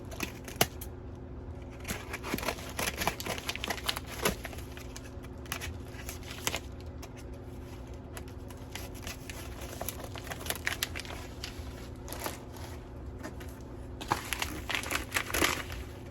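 Package wrapping crinkling and tearing in irregular bursts as a hard-to-open package is worked open by hand.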